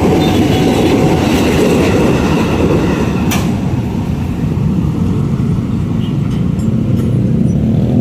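KRL electric commuter train passing close by: a steady, loud rumble of wheels on the rails, with one sharp click about three seconds in.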